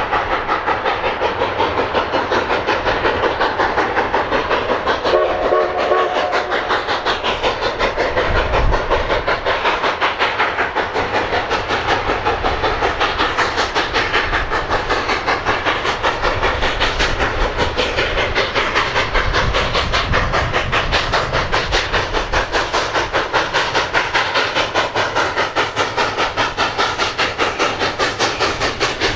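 Narrow-gauge steam locomotive running, with a steady rhythmic beat of about three pulses a second. A short whistle-like tone comes about five seconds in.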